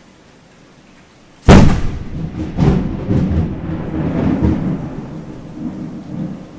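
Close thunderclap from a cloud-to-ground lightning strike: a sudden, very loud crack about a second and a half in, then crackling, rolling rumble that slowly fades.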